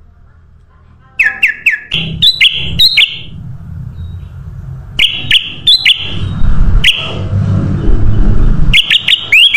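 Kutilang emas bulbul calling. Starting about a second in, it gives bursts of quick down-slurred notes and clear whistles, over a loud low rumble.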